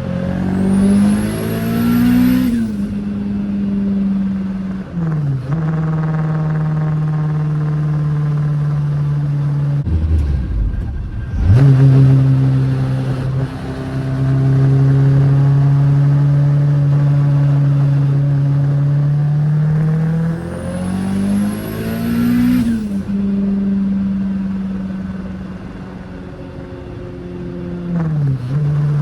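Turbocharged K20 four-cylinder engine of a swapped MR2 pulling hard twice, its pitch climbing along with a rising high whistle from the 6262 turbo spooling, then dropping suddenly at the shift. Between the pulls it runs at steady revs, with a brief loud low rumble about ten seconds in.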